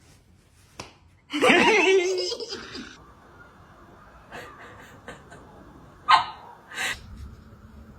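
A person laughing for about a second and a half, starting about a second in, followed by a few short sharp sounds near the end.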